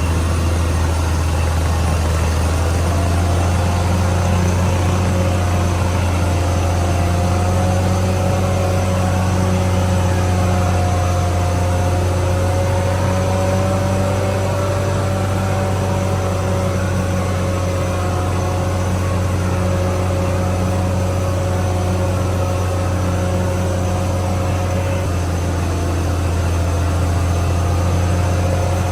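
CAT D6R XL bulldozer's diesel engine running steadily: a continuous low drone with a slowly wavering whine above it.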